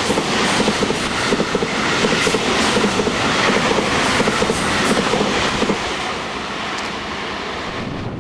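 Electric train passing close by, its wheels clattering in a steady rhythm over the rails. The clatter stops about six seconds in as the last car goes by, leaving a quieter steady running noise.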